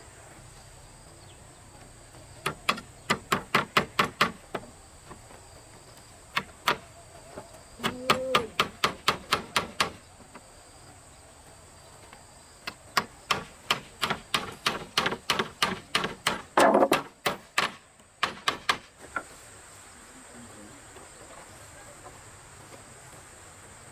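Quick runs of sharp tool strikes, about five a second, in several bursts with pauses between, over a steady high buzz of insects.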